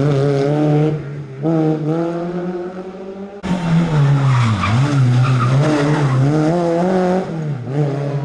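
Rally cars' engines revving hard through the gears on a special stage, pitch climbing and dropping with each shift and lift-off. About three and a half seconds in, the sound jumps abruptly to another car at full throttle.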